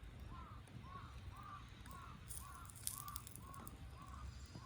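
A bird calling in a fast run of short, arched notes, about three a second, with a few faint crackles about halfway through.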